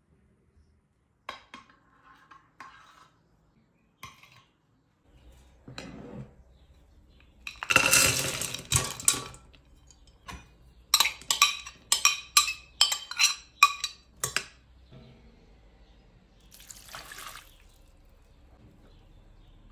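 Kitchen utensils and dishes clinking against glass, with some handling of liquid. The busiest stretch is a dense clatter about eight seconds in, followed by a quick run of about eight sharp clinks, roughly two a second.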